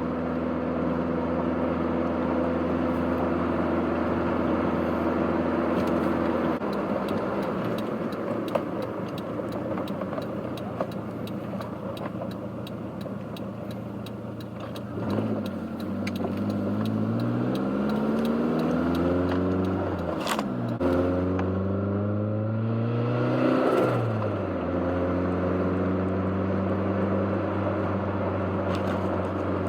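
Turbocharged 3S-GTE four-cylinder engine of a 1991 Toyota MR2 Turbo under way. It cruises steadily, then accelerates twice with its pitch rising, with a break between the two pulls about two-thirds through, before it settles back to a steady cruise.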